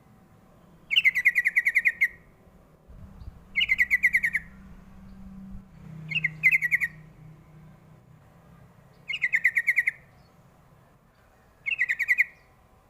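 Yellow-vented bulbul (trucukan) singing its short bubbling song phrase five times, about every two and a half seconds. Each phrase is a quick run of chattering notes lasting about a second, and the middle one is broken into two parts.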